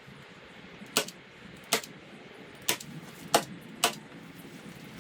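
Five sharp clicks or knocks at irregular intervals, about half a second to a second apart.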